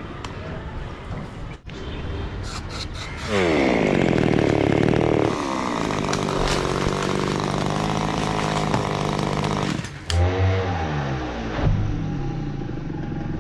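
Chainsaw engine running, revved up sharply about three seconds in and held at high speed for several seconds. Near the end it drops, then revs up and down unevenly.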